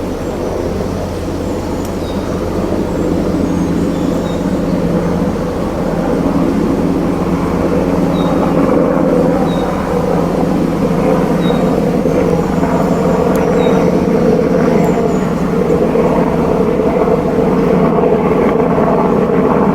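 A steady, loud rushing drone of outdoor ambience, with faint short high bird chirps repeating every second or two.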